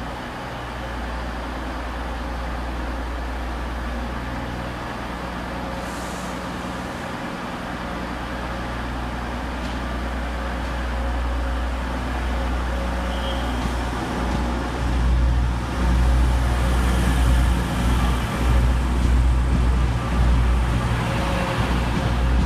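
Class 185 diesel multiple unit's engines running with a steady low hum as it draws into the platform and stands. About fifteen seconds in the sound turns louder and uneven as a second train runs past close by.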